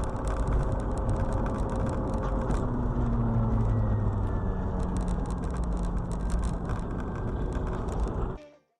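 Car engine and road noise: a steady low rumble with faint steady tones, cutting off abruptly near the end.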